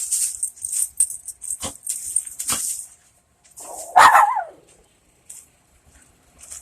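Rustling, crunching footsteps for the first three seconds, then a small dog barks once, about four seconds in.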